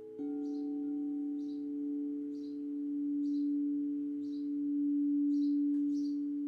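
A singing bowl rings with a steady deep tone. A fresh, louder ring starts a fraction of a second in, then swells and eases in slow waves. Over it a bird chirps briefly about once a second.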